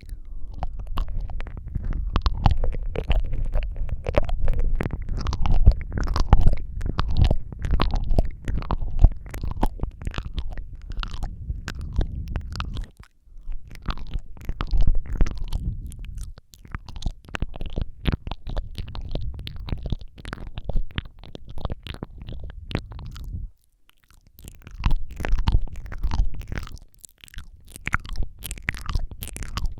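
Close-miked wet mouth sounds: a rapid run of tongue clicks, smacks and licking with a low rumble beneath. They pause briefly three times.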